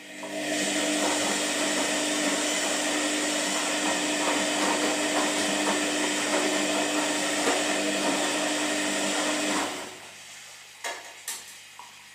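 Washing machine running with a steady, loud mechanical whir and hum that starts suddenly and cuts off after nearly ten seconds, followed by two short clicks.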